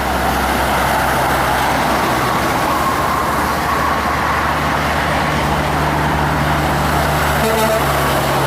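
Heavy truck's diesel engine running steadily over road traffic noise, its low engine drone growing a little stronger about halfway through.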